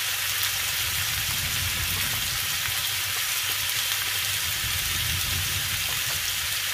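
Halved lobsters frying in olive oil in a pan, sizzling steadily with a few faint crackles.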